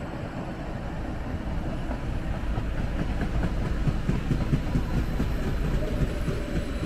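A train rolling past on the track: a low rumble that grows louder after a couple of seconds, with a rapid clatter of wheels on the rails. A faint steady whine comes in near the end.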